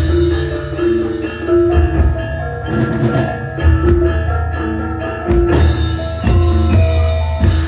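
Javanese gamelan ensemble playing a gending: bronze metallophones ring sustained, overlapping notes over deep low gong tones and sharp drum strokes in a steady rhythm.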